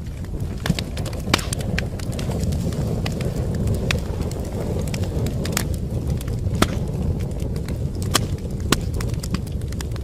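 Wood fire in a fireplace crackling: a steady low rush of flame with irregular sharp pops and snaps, several of them louder than the rest.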